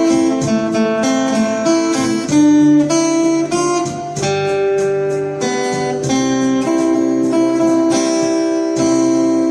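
Acoustic guitar strummed through a slow chord progression, ending on a chord left ringing near the end.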